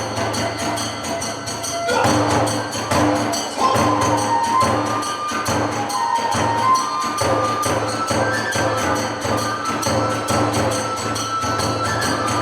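Kagura hayashi ensemble playing fast: rapid drum beats and small hand cymbals (tebyōshi) under a kagura bamboo flute melody that steps between held notes.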